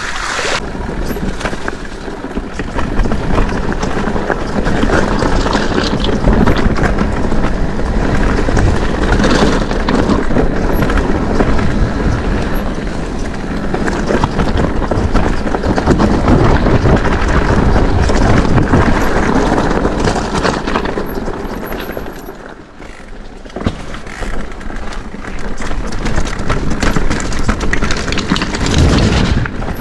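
Mondraker electric mountain bike ridden over a rough, muddy track: a steady loud rush of tyre and ride noise with rattling, easing briefly about two-thirds of the way through.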